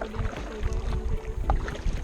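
Kayak paddling: the paddle dipping and water splashing and dripping, with an uneven low rumble of wind on the camera microphone.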